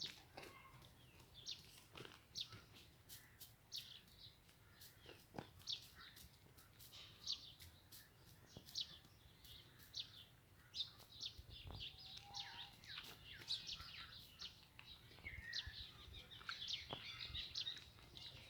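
Small birds chirping faintly: many short, high chirps at irregular intervals, with a few sharp clicks among them.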